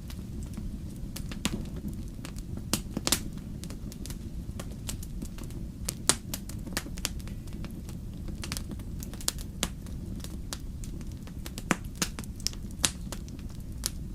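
Fire burning in a fireplace, crackling with irregular sharp snaps and pops over a steady low rumble. A few louder pops stand out, about three seconds in, around six seconds in and near the end.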